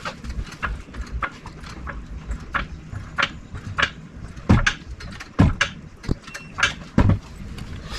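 Irregular metal clicks and knocks of hand tools and parts being handled on an engine, with a few louder clanks about four and a half, five and a half and seven seconds in.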